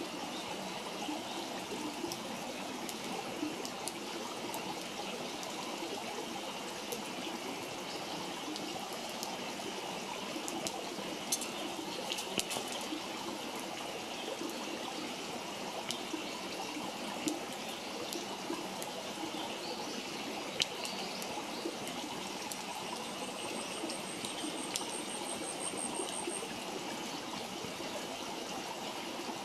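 Wood campfire burning: a steady hiss with scattered sharp crackles and pops.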